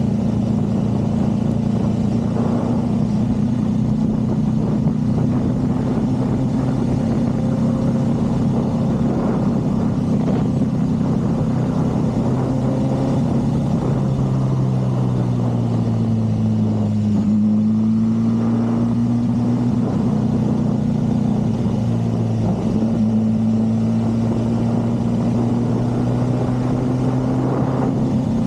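Motorcycle engine running steadily at low revs during a slow ride. Its pitch drops about halfway through, then rises again as it picks up.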